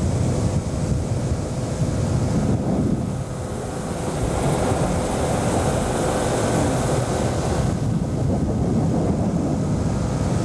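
Motorboat running at speed over floodwater, its engine a steady drone under water rushing past the hull, with wind buffeting the microphone.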